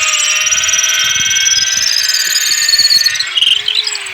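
Electric hand power tool running at full speed with a loud, high-pitched whine. It is switched off about three seconds in and winds down, its pitch falling, by the end.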